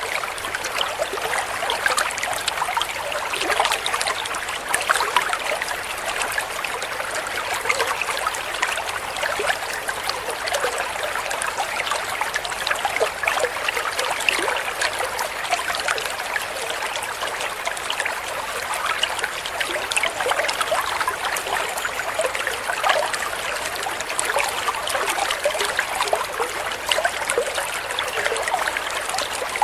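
Running water trickling and splashing steadily, like a small stream or fountain.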